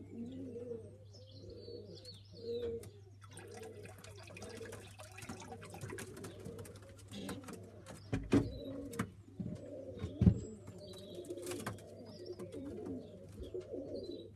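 Pigeons cooing over and over in an aviary, with scattered taps and rustles and two louder low thumps in the second half.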